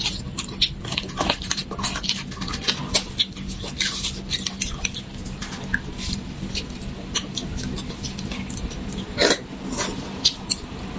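Close-miked eating of beef bone marrow: wet sucking, slurping and lip-smacking in quick, irregular clicks, with one louder slurp about nine seconds in.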